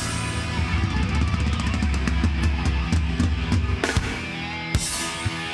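Live heavy band playing the close of a song: distorted guitars and bass with a full drum kit, bass drum and cymbal crashes, without vocals.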